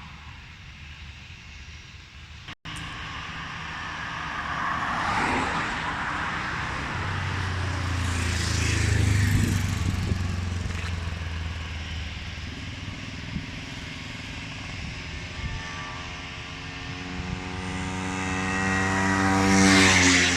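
Engine noise of passing vehicles swelling and fading twice, loudest about nine seconds in and again near the end, the second pass with a tone that slides down in pitch. A brief dropout cuts the sound about two and a half seconds in.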